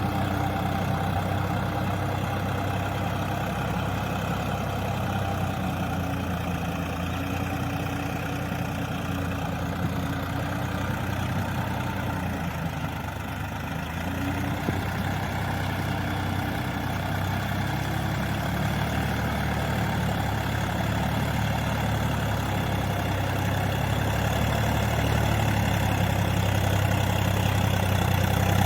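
Swaraj 744 FE tractor's three-cylinder diesel engine running steadily while it ploughs soft mud, growing a little louder near the end.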